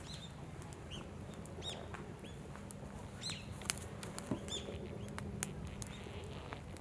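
Wood campfire crackling with scattered sharp pops, while a small bird gives short chirps several times.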